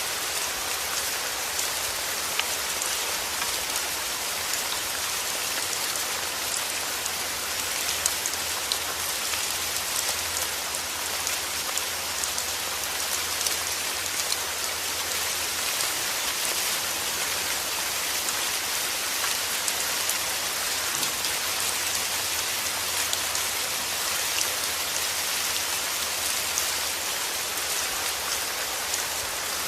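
Steady heavy rain falling, a dense even hiss with many individual drops pattering on a surface.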